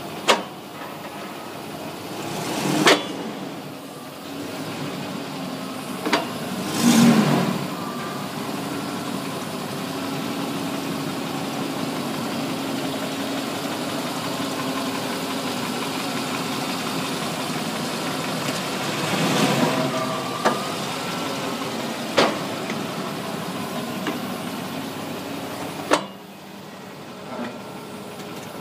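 1999 Range Rover running steadily, with several sharp clicks or knocks at irregular intervals and two brief swells in level; this is the noise the owner hears from the rear, cause unknown.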